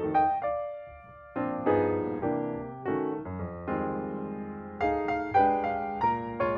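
Background music: piano playing a gentle run of chords and single notes, each note struck and then fading, with a short pause about a second in.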